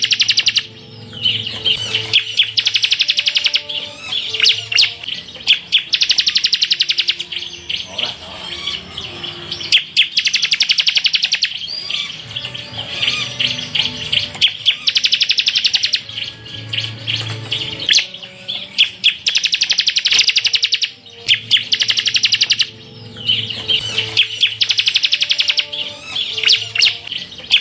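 Bar-winged prinia (ciblek semi) singing 'full tembakan': high, rapid rattling trills, one phrase after another with only short breaks.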